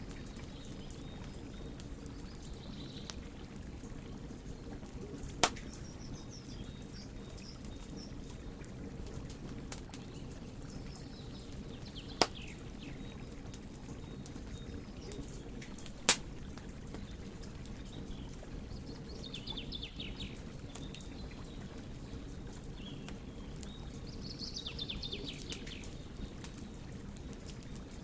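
Wood fire burning with a steady low rumble and small crackles, with three sharp loud pops spread through it. Faint high chirps come and go.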